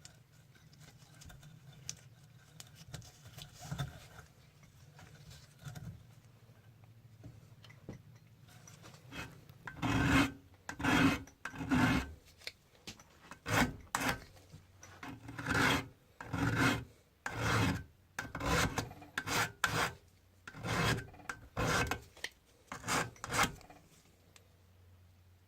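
Hand-worked rasping strokes on the steel of a saw-blade knife. The strokes are back and forth, about a dozen and a half of them at roughly one a second, and they begin about ten seconds in after a stretch of faint low hum.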